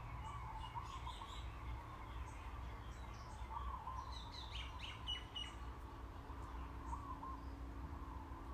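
Small birds chirping: repeated short chirps, with a quick run of falling notes about four to five seconds in, over a low steady hum.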